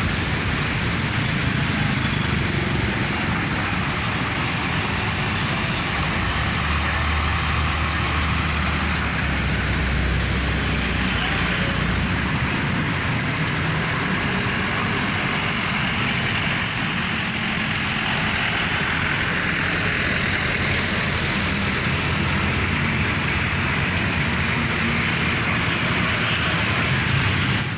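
Dense, slow road traffic of buses, trucks and cars: steady engine and tyre noise, with a heavy vehicle's low engine rumble loudest from about six to twelve seconds in.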